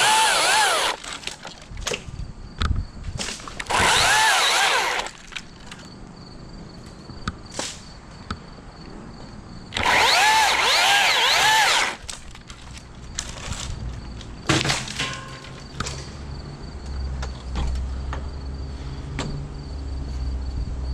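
Chainsaw cutting wood in three bursts of a few seconds each, its pitch rising and falling as it bites. About a second after the last cut come a few sharp knocks, then a low steady hum.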